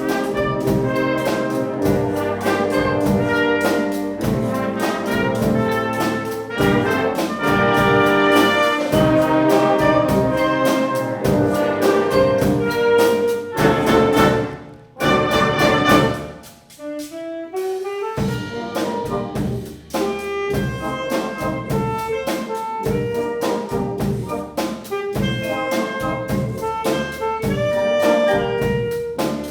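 Wind band playing loud brass-led music in a jazzy Latin style. About 16 seconds in the band briefly drops out, a rising slide leads back in, and the playing resumes more lightly.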